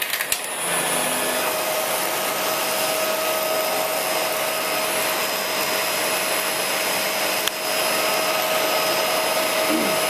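Shark Rotator Lift-Away upright vacuum running steadily, its motor giving a steady whine over the rush of air, with one short click about seven and a half seconds in.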